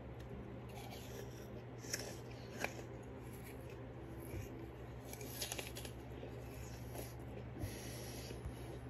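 Someone chewing a mouthful of raw apple: wet chewing with a few sharp crunches about two seconds in and again a little past halfway, over a steady low hum.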